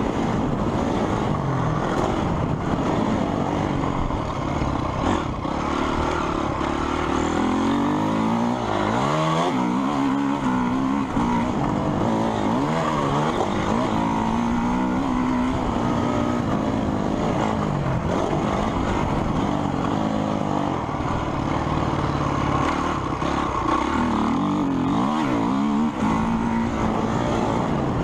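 Several motocross bikes running on a track, their engines revving up and dropping back again and again as they shift gears, the rising and falling engine notes overlapping.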